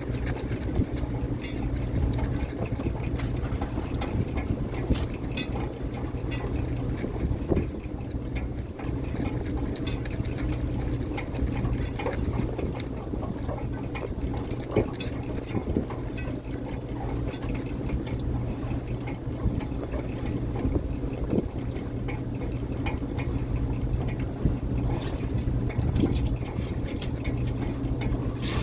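Fishing boat's engine running at a steady, even drone, with scattered clicks and knocks and the wash of water.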